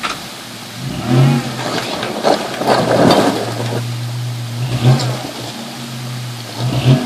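A 4x4's engine revving in repeated bursts under load. A loud rough noise rises and falls in the middle, between the revs.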